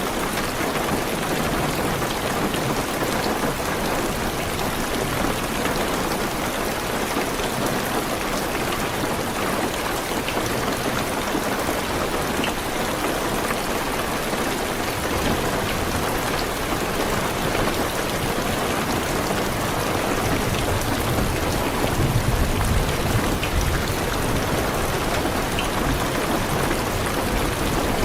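Heavy rain drumming steadily on a car's roof and windows, with scattered individual drop ticks. A low rumble of distant thunder swells about twenty seconds in.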